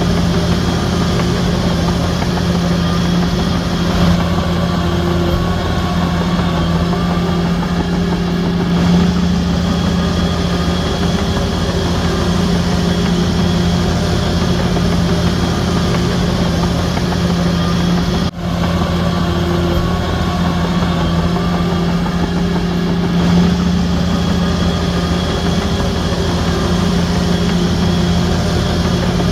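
Shantui DH17C3 bulldozer's diesel engine running steadily with a deep, even hum. The sound drops out for an instant about two-thirds of the way through.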